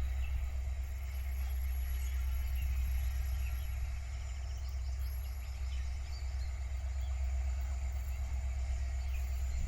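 Outdoor ambience: a steady low rumble with faint bird chirps in the middle stretch.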